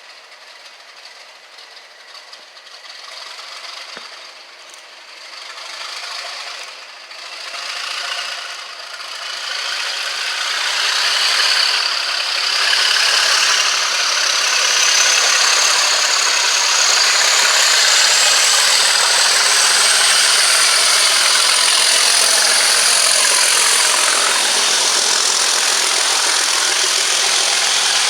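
A train drawing close and running past, growing louder over several seconds and then staying loud, with a high whine that slowly rises in pitch.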